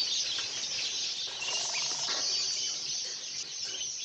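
Many small caged songbirds chirping and twittering together in a continuous dense chatter.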